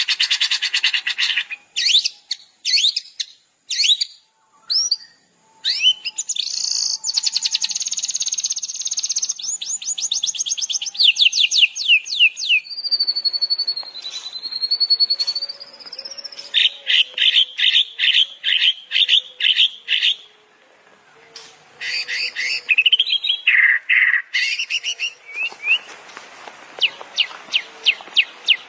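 Recorded songbird song used as a training tutor, a varied run of phrases: fast trills of rapid repeated notes, clusters of sharp chirps and a long wavering whistle near the middle.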